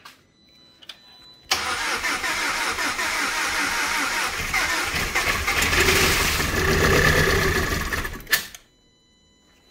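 The 2007 Audi A4's 2.0-litre turbocharged four-cylinder engine starts and runs unevenly for about seven seconds, then cuts out suddenly.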